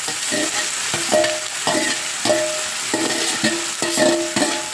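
Chicken, onion and tomato frying in coconut oil with a steady sizzle, while a spatula stirs them in the pan in repeated scraping strokes, about two a second, each leaving a brief metallic ring.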